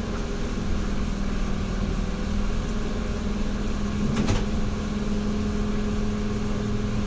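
ZiU-682 trolleybus running, heard from on board: a steady low electrical hum over rumbling road noise, with a short click about four seconds in.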